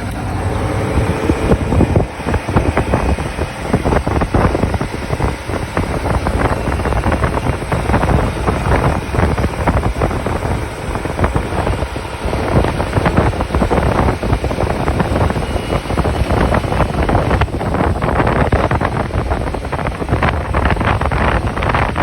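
Tractor-trailer under way: a steady rush of engine and road noise, with wind buffeting the microphone.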